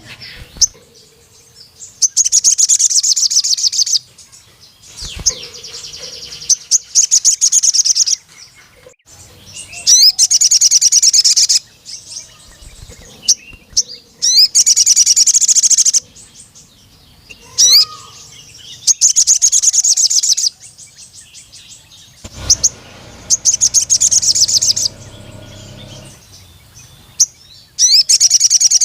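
Male sogon sunbird singing loudly in repeated bursts of rapid, high-pitched trilled notes. Each burst lasts about two seconds and comes every three to four seconds, with short single chirps between them. This is the full, persistent song that keepers use as a lure to call a rival male.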